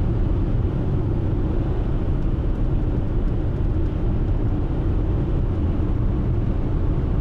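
Steady road and engine rumble inside a moving vehicle's cabin while driving.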